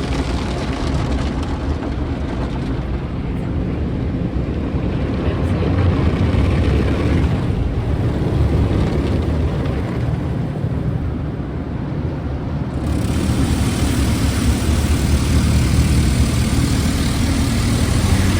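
Automatic car wash tunnel equipment heard from inside the car: a steady low rumble, with a higher rushing noise that thins out for several seconds and then comes back abruptly near the end.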